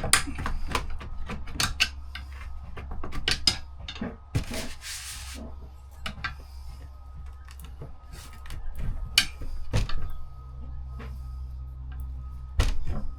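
Scattered knocks, clicks and scrapes of hand work on wood, pulling and clearing rotted floor wood, with a short rushing noise about four seconds in. A steady low hum runs underneath.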